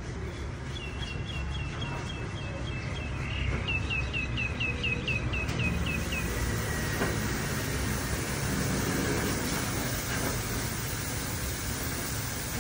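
A small bird singing two quick runs of repeated chirps, about ten notes each, in the first six seconds, over a steady low rumble of outdoor background noise.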